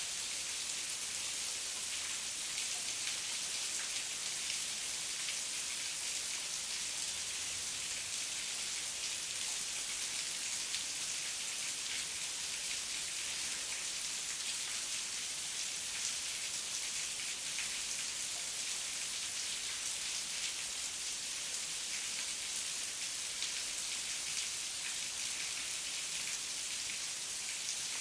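Heavy rain falling steadily, a constant hiss of dense drops with fine patters and no letup.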